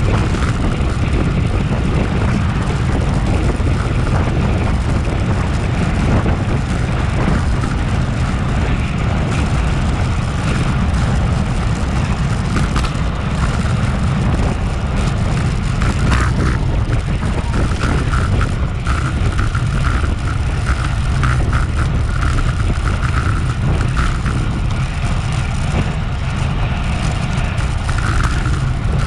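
Wind rushing over a bike-mounted action camera's microphone as a road bike rides at racing speed: a steady, loud, low rumble, with a faint wavering higher tone about halfway through.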